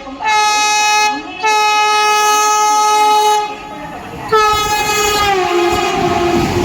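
Horn of a high-speed express train sounded three times: a short blast, a long blast of about two seconds, and a third about four seconds in that drops in pitch as the train passes. The rush and rumble of the train going by follows.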